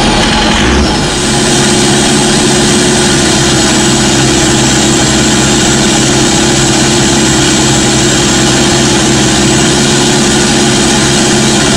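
Modified Toyota Innova's 1KD turbodiesel engine cruising steadily at low revs at highway speed, a constant drone heard inside the cabin.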